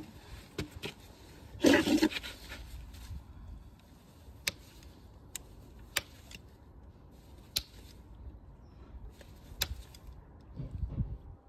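Hoof trimming on a Shire horse: farrier's tools cutting and scraping hoof horn, with a brief scraping rush about two seconds in and sharp single clicks every second or two after it.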